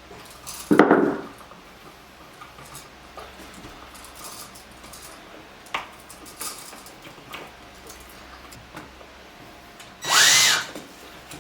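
Scattered clicks and knocks of handling work, with a louder thump about a second in. Near the end a small power tool runs for about half a second, its whine rising and falling.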